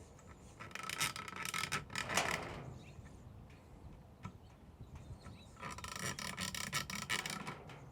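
Screws being turned into a rifle's metal upper receiver with a hand tool: two spells of rubbing, scraping turns with small clicks, the first about half a second in and the second starting near six seconds.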